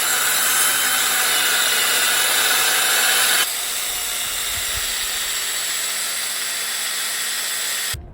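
Small battery-powered tool running steadily with a 500-grit abrasive on the Stanley #3 plane's metal, a whirring motor with a thin high whine over the scrubbing noise. It gets a little quieter about three and a half seconds in and stops just before the end.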